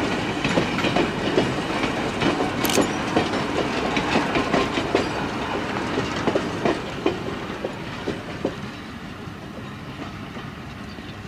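Electric interurban train rolling past, its steel wheels clicking over the rail joints in an irregular string of clacks. The sound fades as the train draws away, and the clicks die out about eight seconds in.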